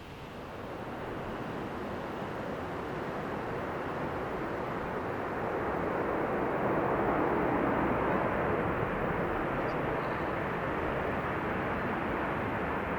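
Jet airliner passing close by, its engine noise a steady rush that swells over the first several seconds and stays loud.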